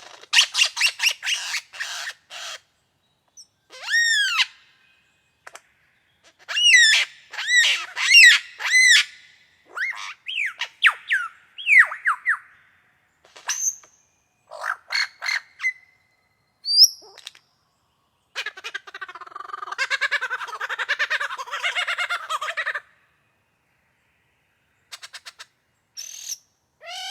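Superb lyrebird singing a varied song: quick trills of clicking notes, loud arching whistled notes, and a harsh chattering passage of about four seconds starting around eighteen seconds in, then a few scattered notes near the end.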